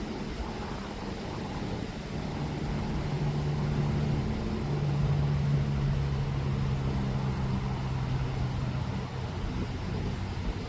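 A motor engine droning at a steady pitch, growing louder in the middle and then easing off slightly, over a steady rushing background.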